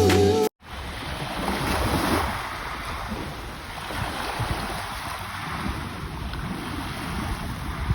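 Background music stops abruptly about half a second in. After it comes the steady wash of ocean surf, with wind buffeting the microphone and a swell of the waves about two seconds in.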